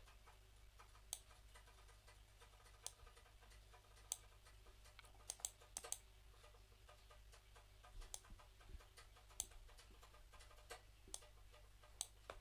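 Faint, irregular clicking at a computer, mouse and keyboard clicks, about a dozen spread out with a small cluster in the middle, over a low steady hum.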